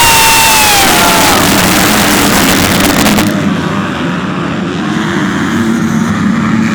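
MX2 motocross bike running hard close by, very loud, its engine whine dropping in pitch as it goes past, then fading after about three seconds. Other bikes' engines drone on steadily underneath.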